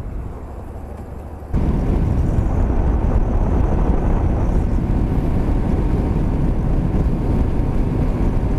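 Motorcycle riding along with steady wind rush over the microphone. The sound jumps suddenly louder about a second and a half in.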